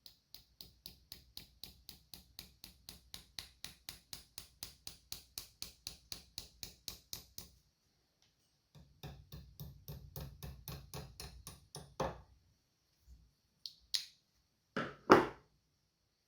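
Quick, even strokes of hand work, about four a second for several seconds, then after a short pause a second faster run ending in a sharper hit, followed by a few separate knocks, the last one the loudest.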